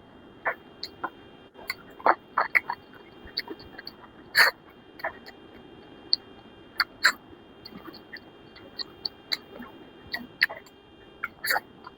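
Close-miked mukbang eating sounds: irregular wet mouth smacks and chewing clicks, with the loudest about four and a half and seven seconds in.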